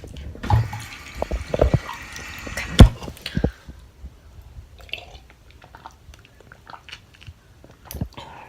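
Water running into a glass, with knocks and clinks, stopping about three and a half seconds in; then a few faint clicks.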